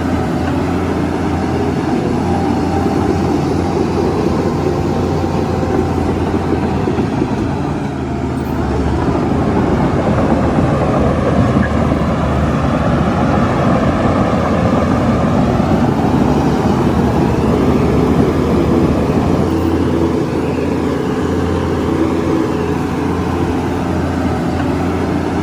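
Heavy diesel earthmoving machinery running continuously, its engine note rising and falling slightly in pitch through the middle.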